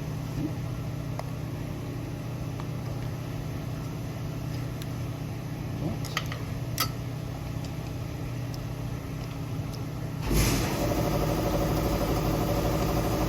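A steady mechanical hum with a few light clicks about six to seven seconds in; about ten seconds in, a louder steady hum with many tones cuts in and holds.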